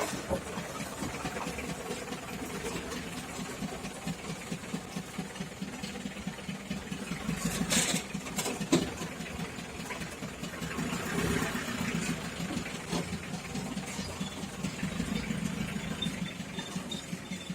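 Engine idling steadily with a low, pulsing rumble, with a couple of sharp knocks about eight seconds in.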